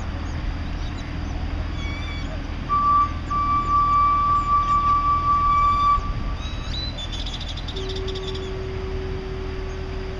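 Small birds chirping in short calls, over a constant low rumble. About three seconds in, a steady high tone is held for about three seconds and is the loudest sound; near the end a lower steady tone comes in.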